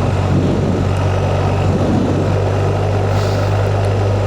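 Motorcycle engine running at a steady cruise, a constant low drone under steady wind rush.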